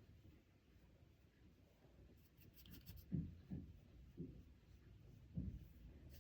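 Quiet handling sounds of makeup being worked: a quick run of faint small clicks a couple of seconds in, then four soft low taps over the next few seconds.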